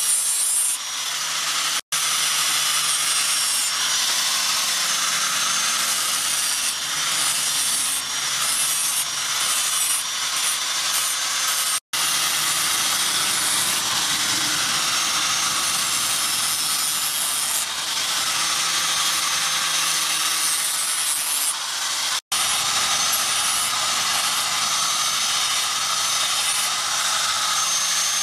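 Handheld electric angle grinder with a sanding disc grinding a steel knife blade: a steady abrasive grinding with a high motor whine. The sound cuts out for an instant three times, about two, twelve and twenty-two seconds in.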